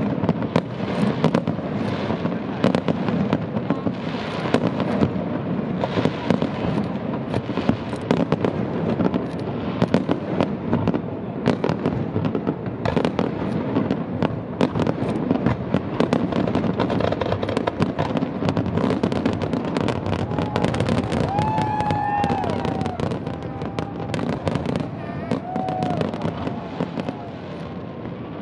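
Aerial fireworks bursting in a dense, continuous barrage: rapid bangs and crackle overlapping with no pause, easing slightly near the end.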